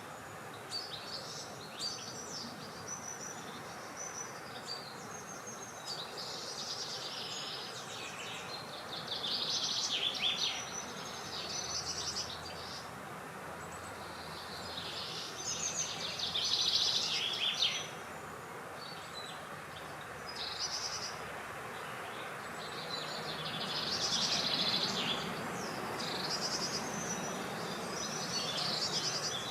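Wild birds singing in bright chirping phrases that come and go every few seconds, with the loudest bursts about a third and about halfway in. A steady wind-like hiss runs beneath.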